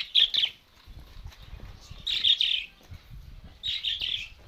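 Budgerigars chirping in three short bursts of quick twittering calls, with faint low knocks and rustling underneath.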